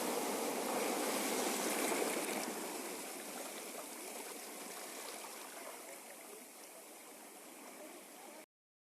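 Ocean waves washing in a steady rush of water, fading gradually over the last several seconds and then stopping abruptly.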